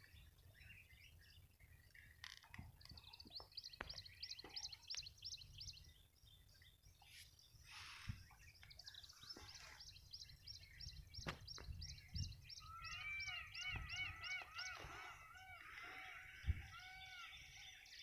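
Wild birds calling, faint: quick runs of high, evenly spaced chirps repeating several times a second, and from about two-thirds of the way through a lower arching call repeated in fast succession. A few faint knocks sound now and then.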